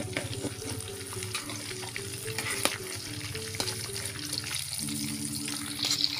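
Tofu cubes sizzling as they fry in hot oil in a large metal wok, with a metal spatula and slotted skimmer scraping and clicking against the pan as the pieces are stirred and lifted out.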